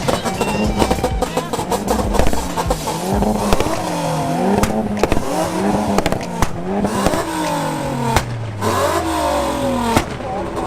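Car engine accelerating through several gears, its pitch climbing and dropping back at each shift, then falling steadily as the car slows near the end.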